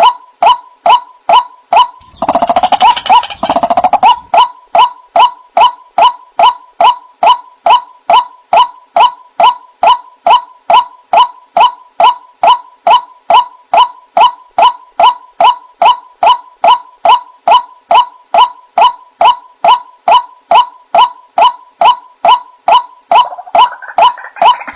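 White-breasted waterhen calling: one ringing note repeated in a steady rhythm about twice a second. A harsher, rougher chatter joins it for about two seconds, a couple of seconds in, and again near the end.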